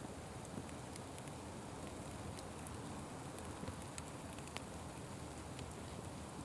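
Fire burning with a steady hiss and scattered sharp crackles and pops.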